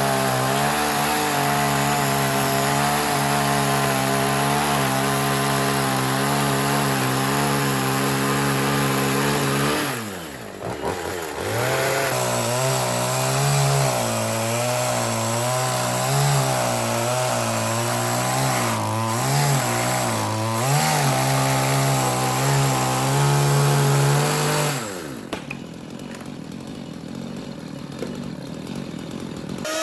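Chainsaw running at high throttle. Its pitch drops briefly about ten seconds in, then it runs high again with the pitch wavering as if under load, and it falls back to a lower, quieter speed near the end.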